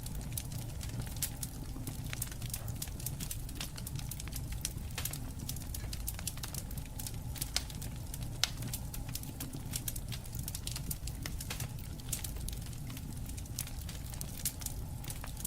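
Wood fire crackling, with frequent sharp pops and snaps over a steady low rumble of burning; two louder pops stand out about halfway through.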